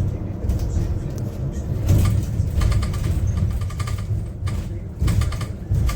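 Cabin noise of a Yutong U12 electric city bus under way: a steady low rumble from road and running gear, with knocks and rattles from the cabin fittings, including short bursts of quick rattling about two and a half seconds in and again near the end.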